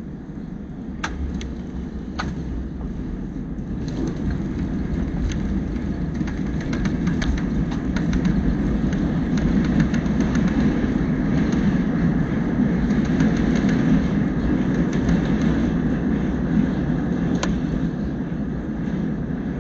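Cabin noise inside an Airbus A321 during landing: a low roar that swells over several seconds and then eases slightly, with scattered clicks and rattles from the cabin fittings.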